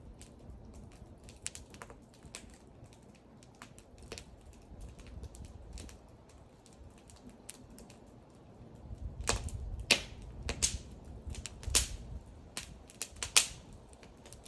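Wood fire crackling: irregular sharp pops and snaps over a low rumble of burning, sparse at first, then a denser run of louder pops in the second half.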